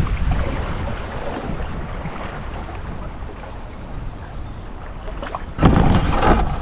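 Wind buffeting the microphone over the rush of river water, with a louder burst of wind noise about five and a half seconds in.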